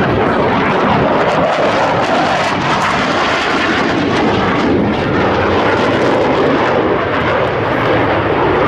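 Loud, steady jet noise from Blue Angels Boeing F/A-18 Hornet fighter jets in flight.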